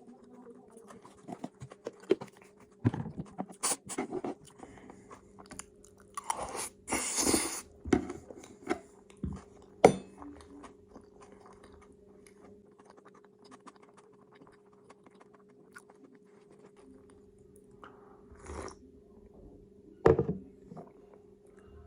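A person chewing food close to the microphone, with irregular wet mouth clicks, smacks and some crunching, busiest in the first ten seconds and quieter in the middle.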